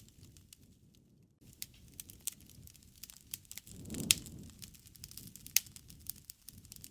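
Wood fire crackling, with irregular sharp pops over a low rush of flames. The rush swells about four seconds in, and the loudest pops come then and about a second and a half later.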